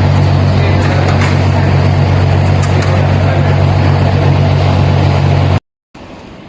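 Car engine idling steadily with a deep, even drone. It cuts off abruptly near the end, leaving only quieter background noise.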